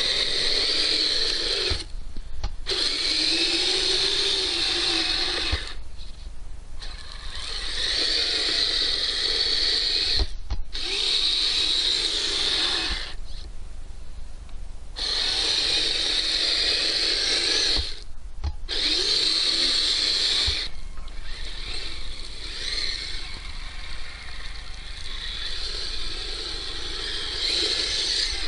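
Electric motor and gearbox of a Kyosho Blizzard RC tracked snow vehicle whining as it drives, the pitch rising and falling with the throttle. It stops briefly about five times and starts up again.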